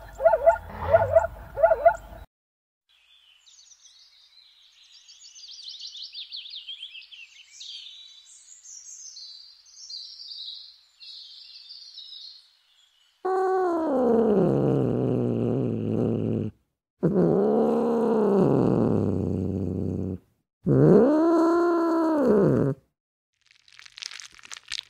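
A sequence of animal sounds. First a short run of rhythmic, pitched barking calls, then faint high chirping of birds. Then, loudest, three long calls, each two to three seconds, that sweep in pitch and fall away. Near the end comes a brief soft crackle.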